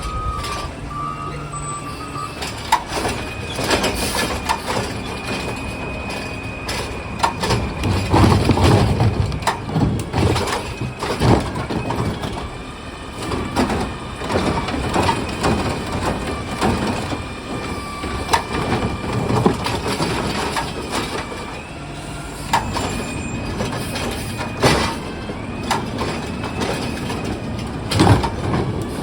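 Recycling truck working at the curb: its reversing beeps stop shortly in, then the truck runs with a high steady whine and repeated clanks and bangs, the loudest about eight seconds in and again near the end.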